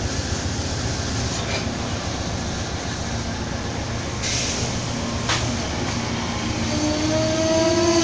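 A train going by on the track, with a steady, heavy rumble. Near the end, a whine joins and climbs slowly in pitch.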